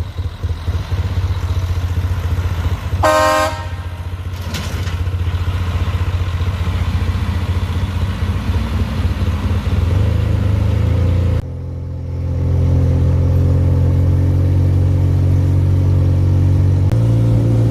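Dump truck engine running under way, with a short horn toot about three seconds in. The engine note changes abruptly about eleven seconds in to a steadier, deeper drone.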